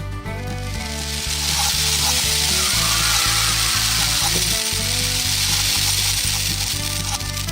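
Background music with a loud, steady hissing noise over it, starting about a second in and stopping near the end.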